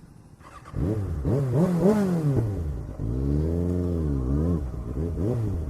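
A motorcycle engine being revved in quick blips, the pitch jumping up and dropping several times, then one longer rise and fall, and a last short blip near the end.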